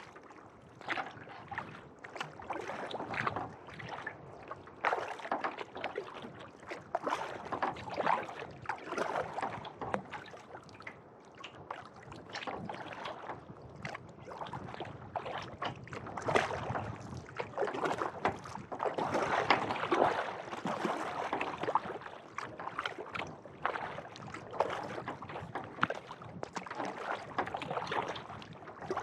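Kayak paddle blades dipping and pulling through calm lake water, splashing and dripping in repeated strokes every second or two.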